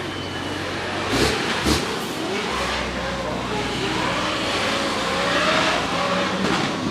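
Drift car engine revving up and down hard, with two sharp bangs about a second in, half a second apart, over a haze of noise.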